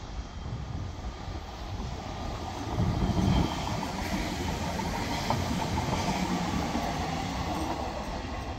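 Class 442 Talent 2 electric multiple unit passing close by on the main line. It grows louder to a peak about three seconds in as the front goes by, then continues as a steady rush of wheels on rail that eases slightly near the end.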